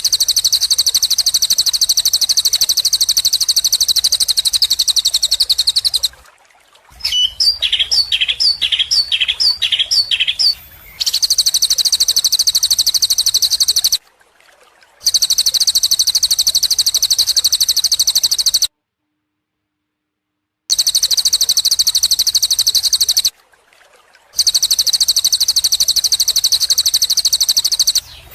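Recorded songbird song: long bouts of a very fast, high, buzzy trill, broken by short dead silences. In one stretch about a third of the way in, the bird gives a series of about eight separate slurred whistled notes, roughly three a second.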